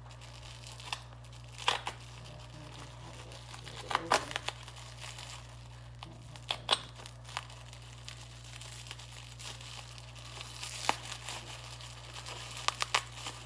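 Thin plastic wrapping crinkling and crackling in scattered bursts as it is pulled open by hand, over a steady low hum.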